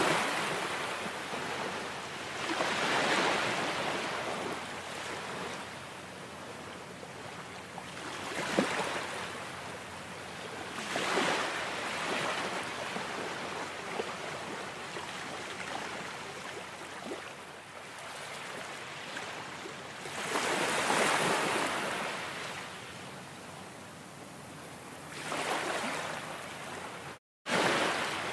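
Ocean waves breaking and washing ashore, a swell of surf every few seconds over a steady wash. The sound cuts out completely for an instant near the end.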